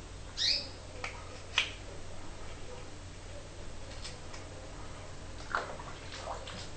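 A short bird chirp about half a second in, followed by a sharp click and a few light knocks, over a steady low hum.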